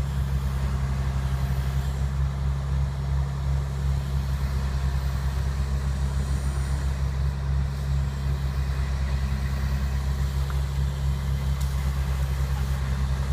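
Diesel engine of heavy equipment running at a steady idle, a deep, even drone.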